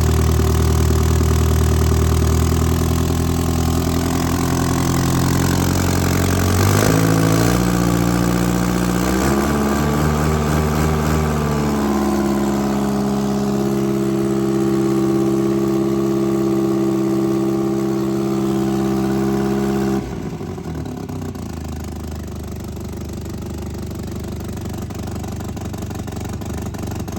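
A 1959 Austin-Healey Bugeye Sprite's 948 cc A-series four-cylinder engine running on its cold start after about 25 years of sitting. It is idling at first, then the revs are raised in two steps about a quarter and a third of the way in and held there. About 20 seconds in the note drops abruptly back to a lower, quieter idle.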